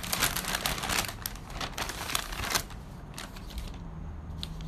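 A gift package being unwrapped by hand: dense rustling and crinkling of the wrapping for about two and a half seconds, then a few separate rustles and clicks.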